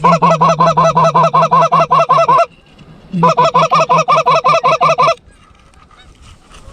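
A goose call blown close by in two fast runs of rapid, evenly spaced clucking honks, about six notes a second over a steady low drone, the second run starting after a short break. It is the hunter's calling to work Canada geese that are turning back toward the spread.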